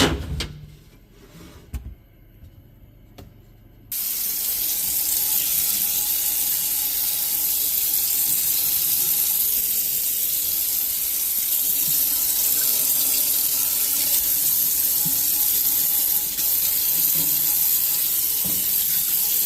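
A few knocks of handling, then a tap starts suddenly about four seconds in and runs steadily into a sink as the glass shelf panel is washed of grime.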